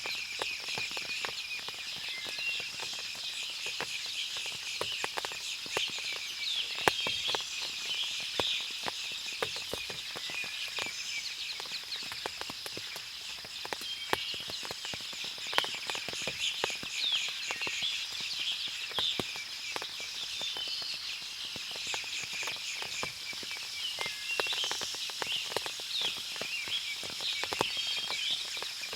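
Forest after rain: many birds chirp and call over a steady high insect drone, with scattered sharp drips throughout.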